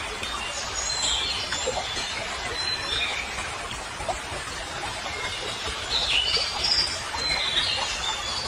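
Birds chirping in short, high calls, more of them in the last few seconds, over a steady background hiss.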